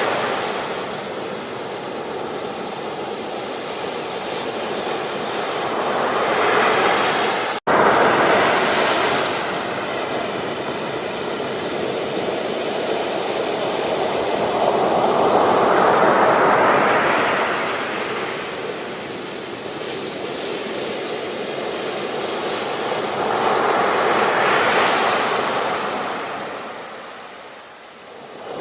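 Ocean surf washing onto a beach, rising and falling in slow swells about every eight seconds. The sound cuts out for a split second about seven and a half seconds in.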